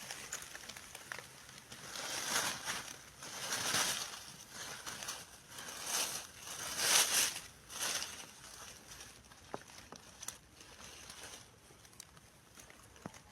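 Rustling and crunching in dry forest-floor leaf litter, coming in several swells a second or two apart, loudest about seven seconds in, then dying down to a few sharp clicks near the end.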